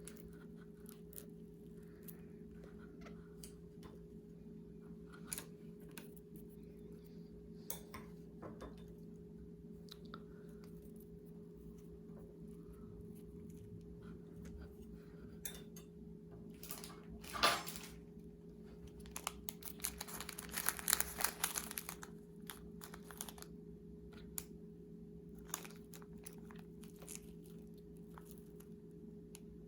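Small handling sounds of food preparation: scattered light clicks and taps, one louder knock a little past the middle, then a few seconds of crinkling like a plastic bag or wrapper being handled. A steady low electrical hum lies under it all.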